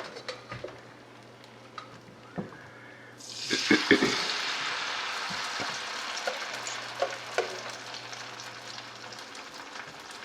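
Batter-coated green onions going into hot oil in a frying pan. After a few light knocks, a sudden loud sizzle starts about three seconds in and settles into a steady frying hiss.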